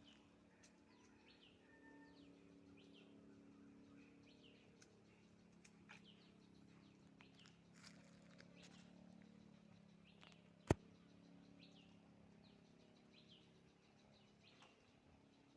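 Faint small-bird chirps repeating over a low steady hum, with one sharp click about two-thirds of the way through.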